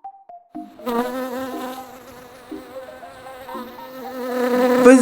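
A flying insect buzzing: a steady, wavering drone that starts just under a second in and grows louder toward the end. It comes after a few short tones.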